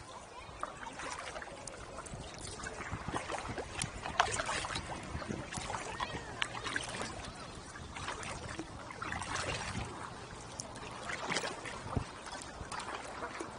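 Kayak paddles dipping and pulling through the water, splashing and dripping, a louder stroke every couple of seconds.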